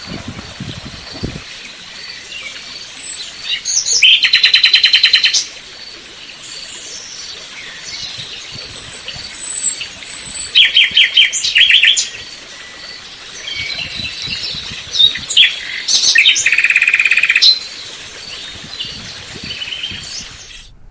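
Wild birds singing: loud trilled phrases of rapidly repeated high notes about four times, with thin high whistles in between.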